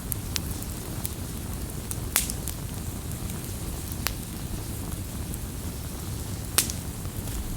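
Campfire burning with a steady low rumble and scattered sharp crackles and pops, the loudest pops about two seconds in and near the end.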